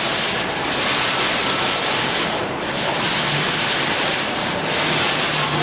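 Steady rushing hiss of water falling from a graphic waterfall display.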